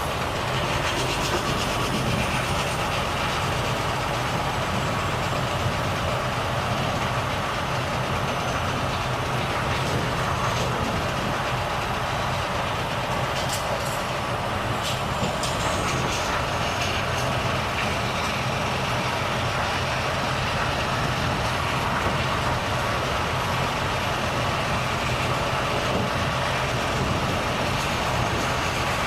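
Volvo FH truck's diesel engine running steadily under way, with road and tyre noise.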